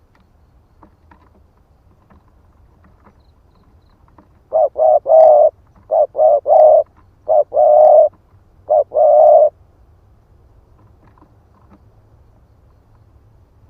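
Spotted dove cooing: four quick phrases starting about four and a half seconds in, each two or three low coos with the last coo held longer.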